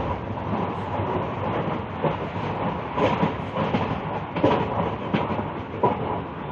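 Moving train heard from inside the carriage: a steady rumbling run with irregular clacks and knocks of the wheels over the rails.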